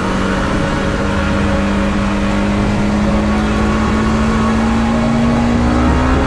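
A motor running with a steady hum that slowly rises in pitch, over a constant hiss.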